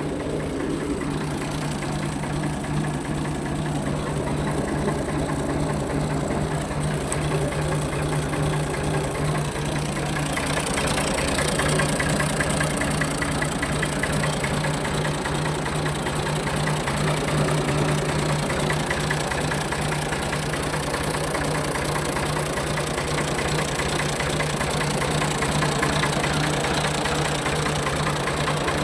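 Ford 4610 tractor engine idling steadily, running a little louder from about ten seconds in.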